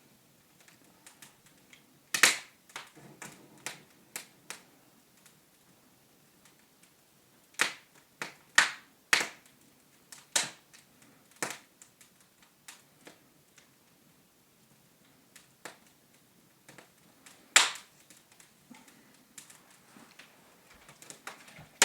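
Irregular sharp knocks and taps of a tool on brick during fireplace masonry work, single strikes and short clusters a few seconds apart, in a small room.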